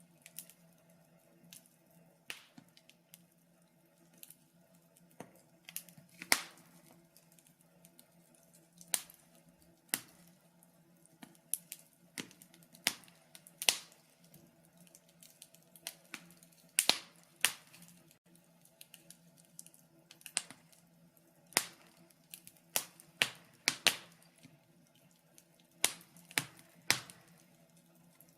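Wood fire crackling in a fireplace: irregular sharp pops and snaps, several a second at times, over a faint steady low hum.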